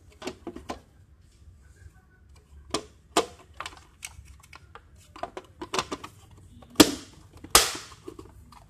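Irregular clicks and knocks of hard plastic and metal parts being handled and fitted together on a UPS unit during reassembly, the loudest two clacks near the end, the second trailing into a brief scrape.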